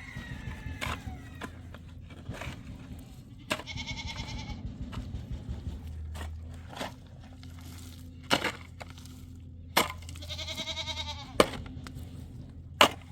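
Bleating livestock, goat or sheep: two quavering bleats, each about a second long, one early and one past the middle. Several sharp knocks fall between them, the loudest sounds here, over a steady low hum.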